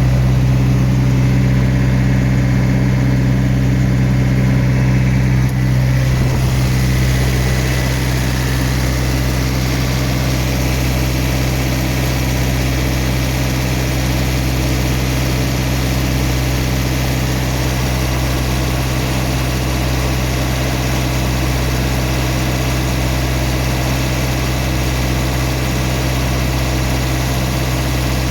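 Diesel engine of a refrigerated trailer's cooling unit running steadily with a constant hum, dropping slightly in level about six to seven seconds in.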